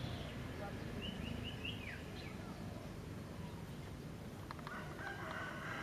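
Steady background noise with a bird chirping: four short high chirps about a second in, then a falling call.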